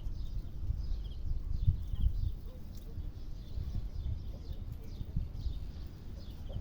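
Wind rumbling on the microphone, with faint birds chirping repeatedly in the background.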